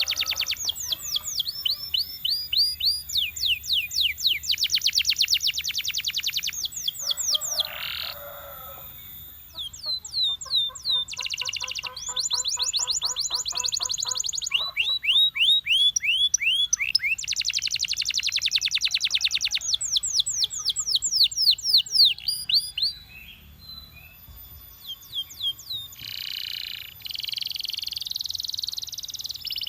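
A male canary singing a long song made of rapid trills: runs of quick, high, down-sweeping whistled notes repeated many times a second, switching to a new trill every few seconds with short breaks. Near the end come some harsher, buzzier phrases.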